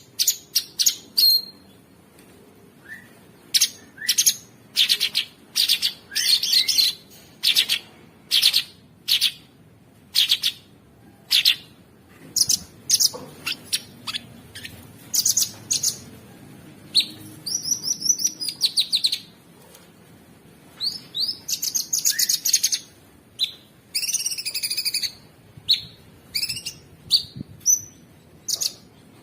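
A cucak sungkok singing: a run of sharp, high chirps and short harsh notes, each a fraction of a second long and coming every half second or so. Past the middle the notes give way to a couple of longer, rapid trilled phrases.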